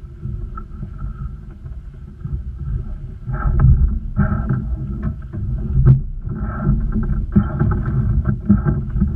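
Sailing boat under way: wind buffeting the microphone and water rushing along the hull, with several heavier thuds as waves hit the boat.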